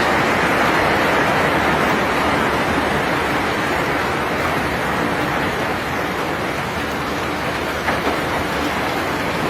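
Steady rushing, clattering noise of rock being unloaded from a cargo ship, easing slightly in the second half, with a single brief knock near the end.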